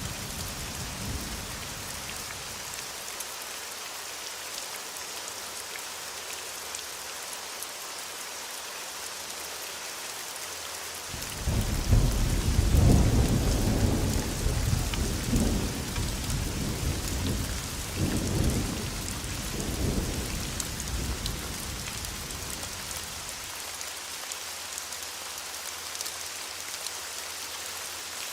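Steady heavy rainfall hissing on surfaces. A peal of thunder breaks in suddenly partway through and rolls on in several waves before rumbling away near the end.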